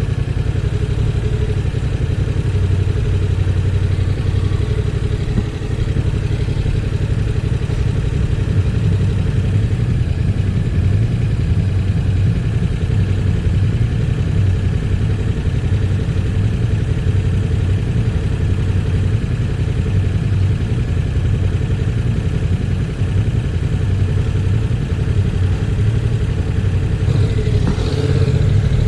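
Heavy wind buffeting a helmet- or bike-mounted action camera's microphone while riding a 2019 Yamaha MT-07, with the bike's parallel-twin engine running underneath. The low, rumbling wind noise is steady and drowns out most other sound.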